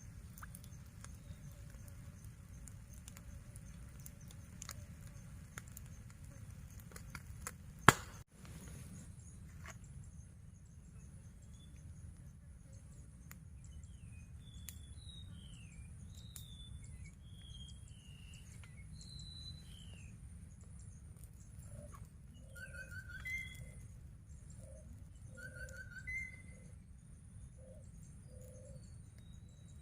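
Birds calling over a low steady rumble: a run of short, sliding chirps, then a few repeated short calls with lower notes near the end. A single sharp click about eight seconds in is the loudest sound.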